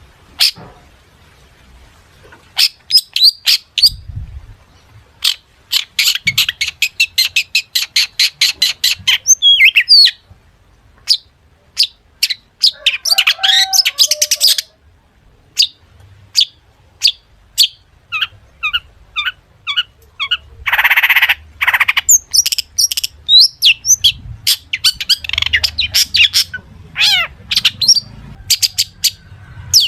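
Long-tailed shrike (cendet) singing a fast, varied song, full of mimicked calls of other birds: runs of sharp high notes at about six or seven a second, broken by short pauses, with one harsh call about twenty-one seconds in.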